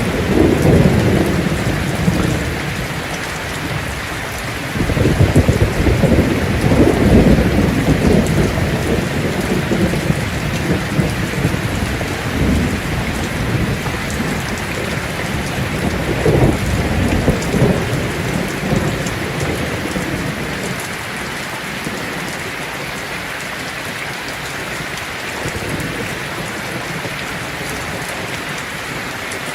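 Heavy rain falling on a tin roof, with rolls of thunder rumbling underneath: the loudest one comes about five to eight seconds in, and a shorter one follows about sixteen seconds in. In the last third it settles to steady rain alone.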